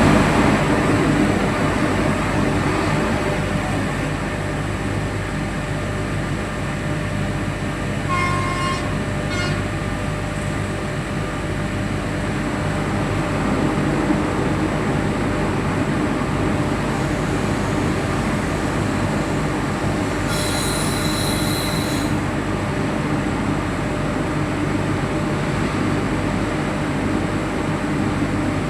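Steady running noise of a train heard from the locomotive cab, a continuous low rumble and hiss. About eight seconds in a short horn note sounds in two parts, and about twenty seconds in a high-pitched squeal lasts nearly two seconds.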